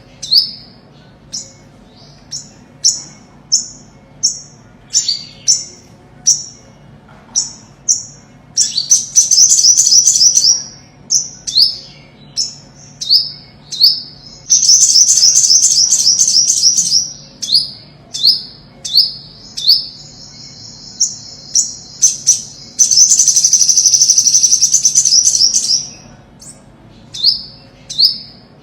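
Olive-backed sunbird calling and singing: a string of sharp, high notes, each dropping in pitch, about one a second. These are broken three times by a fast, high trill lasting a few seconds, the last one led in by a long, even high note.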